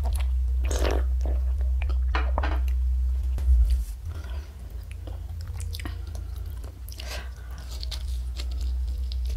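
Close-miked chewing and biting of crunchy fried food, with crisp crunches scattered throughout. A steady low hum runs underneath and drops away about four seconds in.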